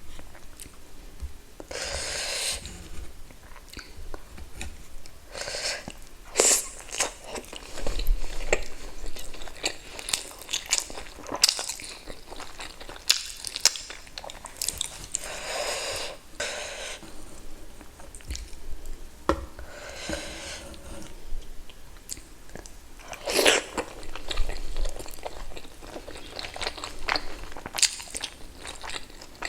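Close-miked eating: irregular wet chewing and biting with sharp clicks and short smacking sounds, as spicy pork dumplings and pork ribs are bitten into and chewed.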